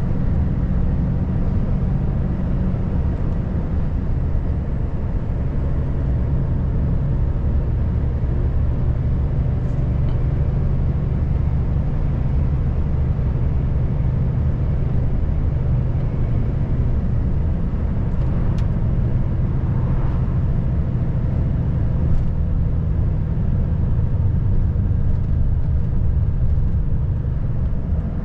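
Volvo FH540 truck's diesel engine running steadily under way, a constant low drone with road noise, with a few faint clicks in the second half.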